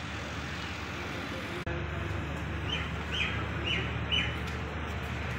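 A small bird chirping four times in quick succession, about half a second apart, with each short call dropping slightly in pitch. Under it runs a steady low rumble of distant traffic.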